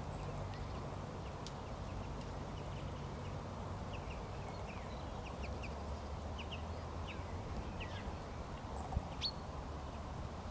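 Short, high bird chirps, a scattered run of them through the middle stretch, over a steady low outdoor rumble.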